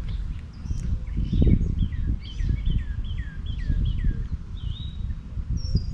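A songbird singing a run of about seven quick, downward-sliding whistled notes, over a strong uneven low rumble on the microphone with a thump about a second and a half in.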